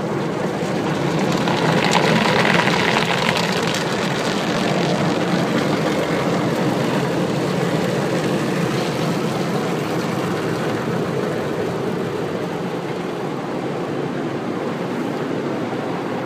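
Automatic car wash working over a car, a steady rushing noise of water spray and machinery, a little louder about two seconds in.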